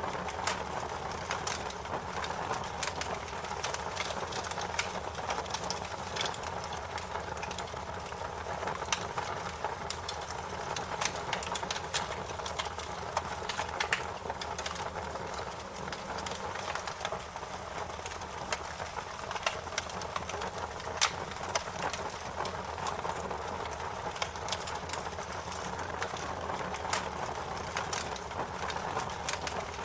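Fire crackling: a steady hiss with irregular sharp snaps scattered throughout, a few of them louder.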